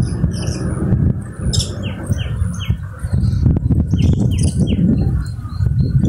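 Birds calling in quick runs of short, falling chirps: four in a row about a second and a half in, and three more around four seconds in. Under them runs a loud, continuous low rumble.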